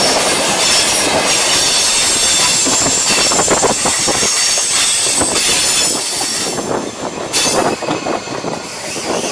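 Passenger train passing at close range: a steady rush of wheels on rail with rapid clattering over the joints and a faint high whine. After about six seconds the last carriages go by and the noise drops and breaks up, with one short loud clack just after.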